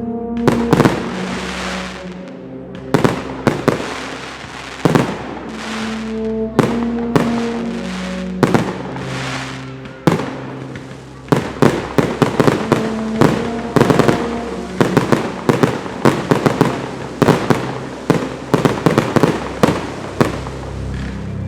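Fireworks display: shells bursting with sharp bangs and crackle over steady music, the bangs coming in quick volleys from about halfway on.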